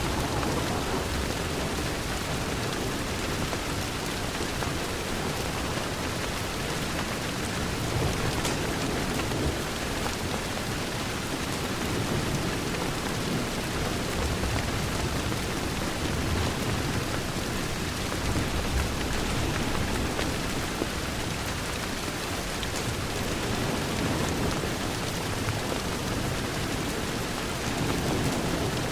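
Steady heavy rain against a window, an even hiss of drops, with a low rumble swelling and fading beneath it.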